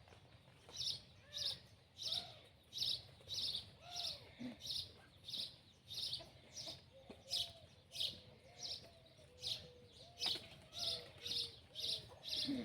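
Small bird chirping over and over, a short high chirp about twice a second, with fainter, lower curving calls beneath.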